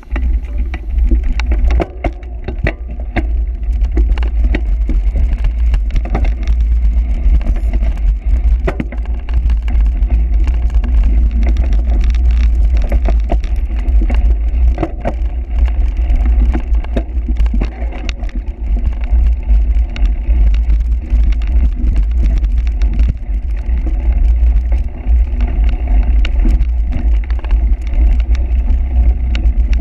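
Steady low rumble of wind and rolling noise on the microphone, with frequent rattling clicks, from a cyclocross bike being ridden over rough ground.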